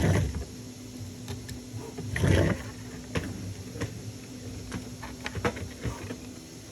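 Small M2 self-tapping screws and 3D-printed plastic parts being handled and worked by hand. There is a brief rustle at the start and another about two seconds in, then scattered light clicks and taps over a faint steady hum.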